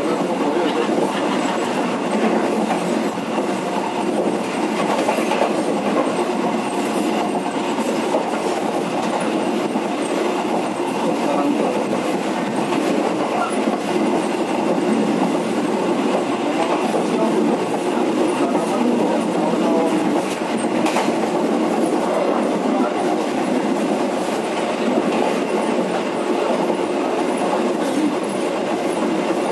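Penataran local passenger train running along the track, heard from inside the rear of the last coach: a steady rumble of steel wheels on the rails, with a few faint clicks.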